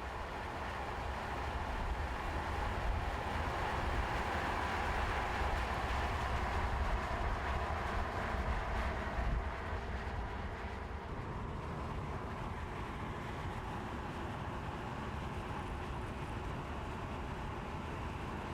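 Mercedes-AMG C43's 2.0-litre four-cylinder engine and road noise as the car drives. It grows louder over the first several seconds, then holds steady.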